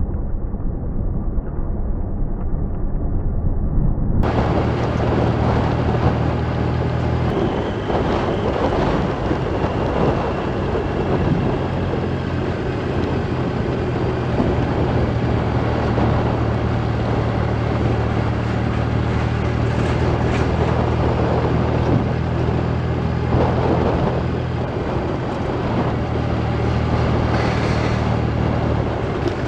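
Motorcycle engine running at a steady road speed, with heavy wind noise on the microphone. About four seconds in, the sound abruptly becomes fuller and brighter.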